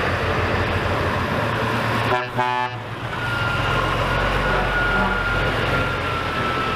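A steady truck-like engine rumble with hiss, which starts and cuts off abruptly like an added sound effect. A short horn toot sounds about two seconds in.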